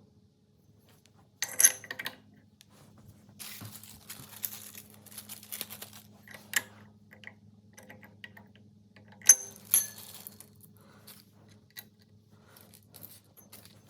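Small metal parts clinking and clicking as a recoil starter cup and its nut are fitted by hand onto a Coleman BT200x mini bike engine's crankshaft, with sharp clinks about a second and a half in and again around nine seconds, and rustling handling in between. A faint steady hum runs underneath.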